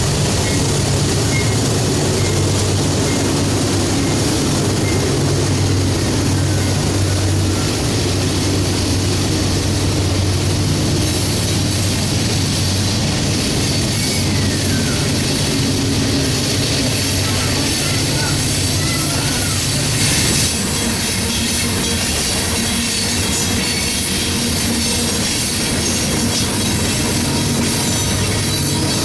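A train passing close by: a steady rumble and rattle of wheels on rail, with a low engine hum through roughly the first two-thirds and a few faint squeals near the middle.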